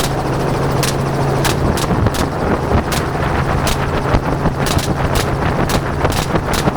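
Rapid gunshots fired from a helicopter, about a dozen cracks at uneven spacing and coming faster near the end, over the helicopter's steady rotor and engine drone.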